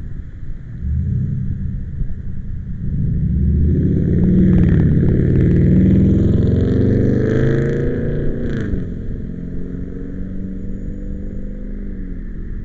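A motor vehicle's engine running, its pitch climbing and loudest in the middle, then dropping about nine seconds in, with wind buffeting the microphone underneath.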